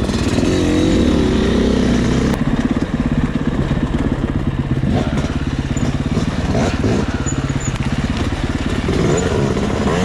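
Dirt bike engine running under changing throttle, its pitch wavering up and down, busiest in the first two seconds and then settling lower.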